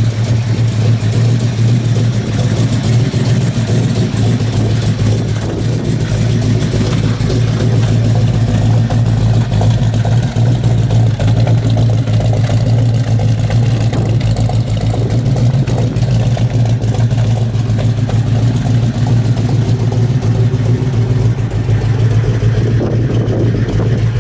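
1971 Plymouth 'Cuda's 426 Hemi V8 idling steadily.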